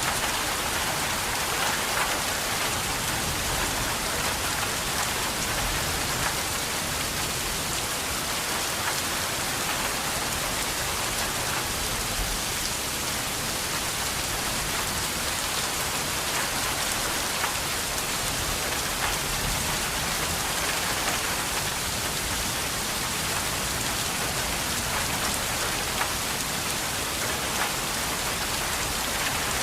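Steady, heavy rain falling on a surface, a continuous hiss with scattered drop impacts.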